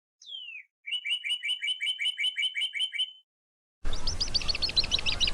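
Bird calls: a single falling whistle, then a fast trill of about a dozen clear, evenly repeated two-pitched notes lasting about two seconds. Just before the end it cuts abruptly to a hissier recording of rapid high chattering notes.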